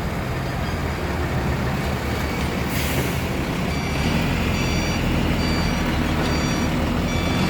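Heavy truck engine running steadily, with a short air-brake hiss about three seconds in, then a reversing alarm beeping repeatedly.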